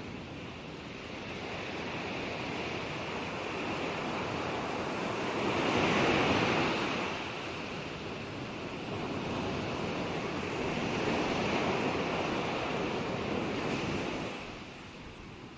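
Ocean waves washing onto a shore: a continuous rushing surf that swells to a loud break about six seconds in, builds again a little past ten seconds, and eases off near the end.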